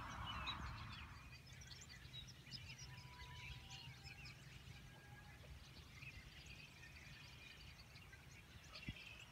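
Faint songbirds chirping, many short scattered calls, over a low steady background rumble.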